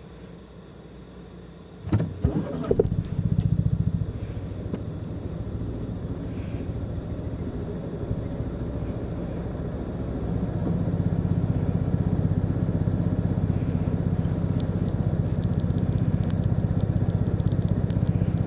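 Fiat 500's engine restarting automatically from an idle stop: a brief crank and catch about two seconds in, then it idles steadily, growing louder about ten seconds in.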